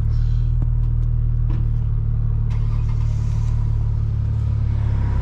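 Straight-piped BMW 335i (E92) with its N55 turbocharged inline-six idling steadily: an even, deep drone with a few faint clicks over it.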